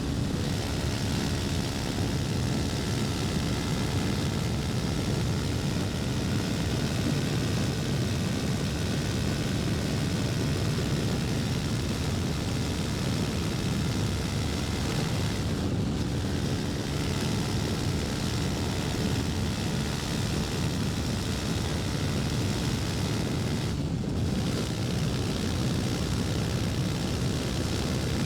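KTM Duke 250's single-cylinder engine running steadily while riding, with an even rushing noise over it; the sound briefly dips twice, about halfway through and again near the end.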